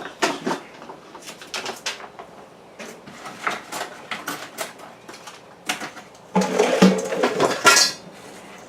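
Clinks, knocks and rattles of hard objects being handled, with a louder spell of dense clattering about six seconds in that lasts a second and a half.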